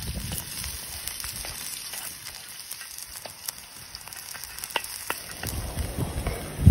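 Onions and minced meat sizzling in hot oil in a large steel wok over a wood fire, stirred with a wooden spatula. A few light clicks come around the middle, and the sizzle grows louder near the end.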